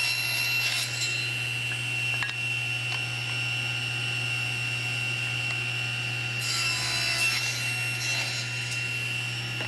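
Power saw running and cutting wood: a steady motor hum with a high whine and the rasp of the blade in the wood. It cuts off abruptly at the end.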